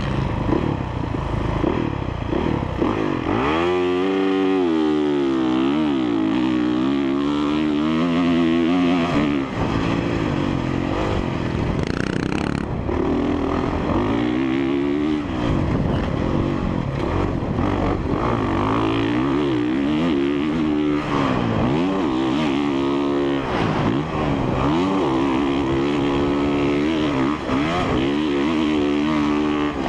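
Honda CRF450R's 450 cc single-cylinder four-stroke engine being ridden hard on a motocross track, its pitch climbing and dropping again and again with throttle and gear changes. The loud run starts about three to four seconds in.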